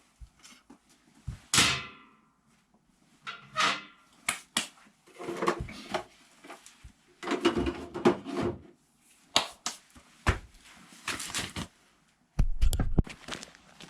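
Irregular series of clunks, knocks and short scraping sounds of objects being handled, a dozen or so separate noises with short pauses between them.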